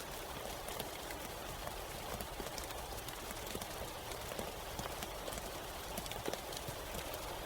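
Steady rain falling, a constant hiss with many irregular, sharp taps of individual drops hitting nearby surfaces.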